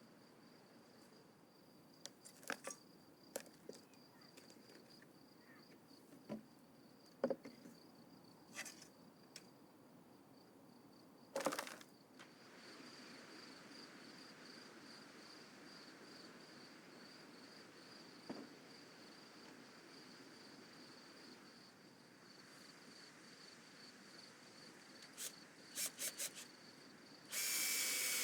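Faint, steady, high-pitched chirping of crickets, with scattered light knocks and taps throughout and a short harsh noisy burst near the end.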